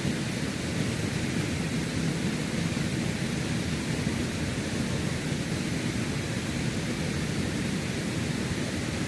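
Rushing water of a creek, a steady, unbroken noise with a deep low rumble.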